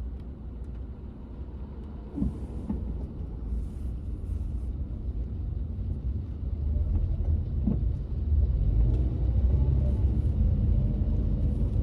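Car cabin road noise: a steady low rumble of engine and tyres heard from inside a moving car, growing louder over the second half, with a few faint knocks.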